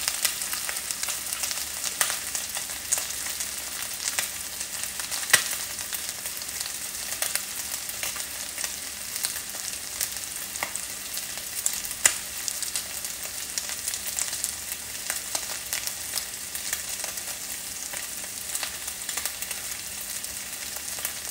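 Chicken pieces sizzling steadily in a hot frying pan as they brown, with a few sharp clicks of a utensil against the pan, the loudest about five and twelve seconds in.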